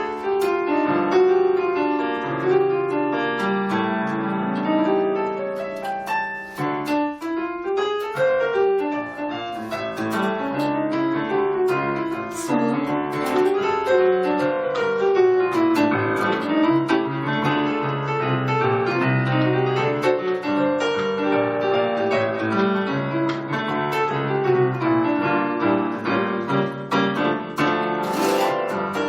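Piano playing an instrumental interlude between verses of a song: a melody over chords, with no voice.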